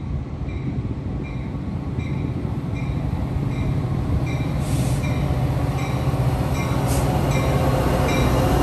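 Freight cars rolling past with a steady low rumble, growing louder as a Metra commuter train pulls in alongside. A bell dings steadily about every 0.6 seconds, and there are two short hisses or squeals, about 4.5 and 7 seconds in.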